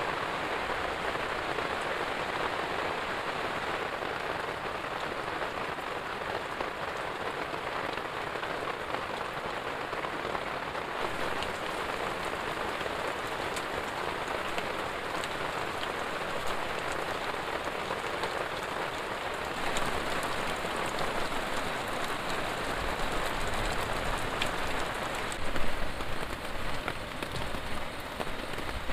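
Heavy rain falling steadily, with scattered sharp drop hits. It grows a little louder about two-thirds of the way in, and there is a brief thump near the end.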